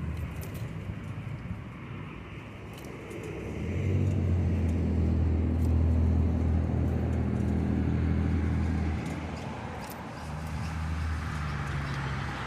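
A motor vehicle's engine running close by, a steady low hum that swells about four seconds in, holds for about five seconds, then fades and returns more faintly near the end.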